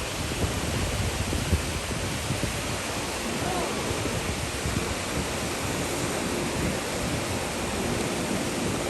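Waterfalls of the Big Sioux River rushing: a steady, even noise of falling water.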